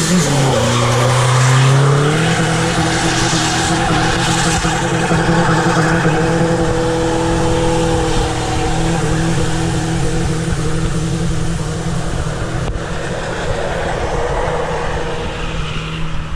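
Twin-turbo TDI diesel engine held at high revs in a rear-wheel-drive burnout, with tyres spinning and squealing. The revs sag about half a second in, climb back within a couple of seconds, then hold steady until the sound fades near the end.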